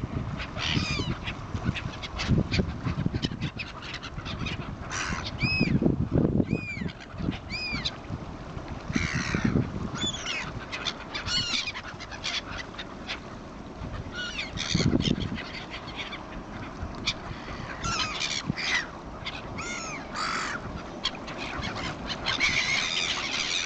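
Several birds calling over and over: short arched calls that overlap one another, over an uneven low rumble.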